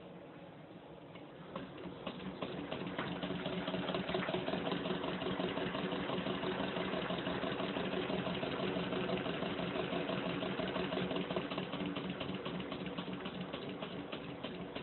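Small model Stirling engine running, a fast, dense ticking over a steady hum. It grows louder over the first few seconds, then holds steady.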